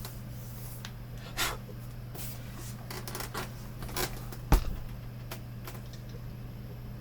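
Scattered clicks and taps of a computer monitor's plastic casing being handled and turned, with one heavier knock about four and a half seconds in, over a steady low hum.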